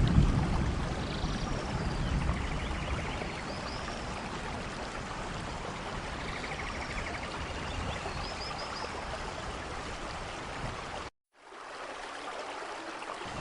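Steady rain, an even hiss, with a low rumble of thunder dying away in the first second and a few faint bird chirps. About eleven seconds in, the sound cuts out completely for a moment and comes back quieter.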